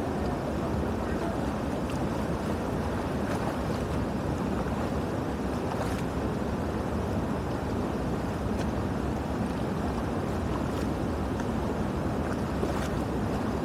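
Steady rush of water flowing through a cleared drain, a constant low noise with a few faint ticks.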